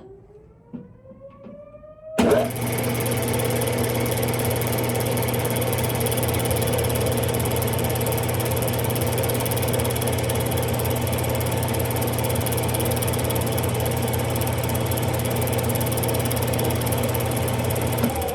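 Smithy lathe's electric motor spinning up with a rising whine, then about two seconds in a sudden loud, steady mechanical running with a deep hum that holds unchanged and cuts off just before the end.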